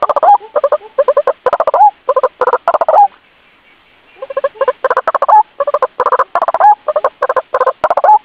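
White-breasted waterhen calls played as a lure: a rapid series of short 'ruak' notes, some ending in an upward curl. The calls break off for about a second midway, then resume.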